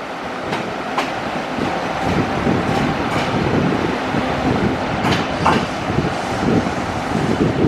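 Train running through a station, a steady rumble of wheels on the rails with a few sharp clicks over the track.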